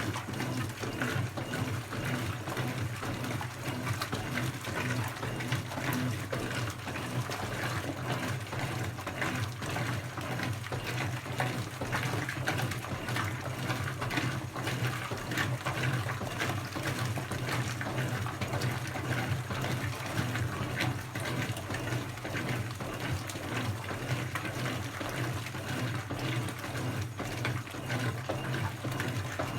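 Brastemp BWK17 17 kg washing machine taking in water: a steady rush of water pouring into the tub over a constant low hum.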